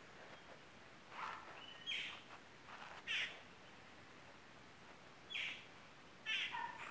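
Birds calling: several short calls, one every second or two.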